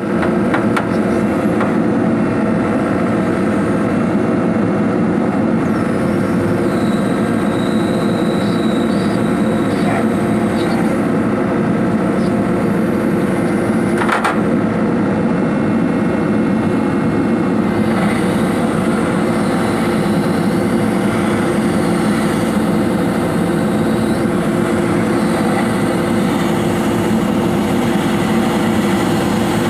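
Hydraulic excavator running steadily, with the abnormal noise of its swing device, a sign of damage in the swing drive. One sharp click sounds about halfway through.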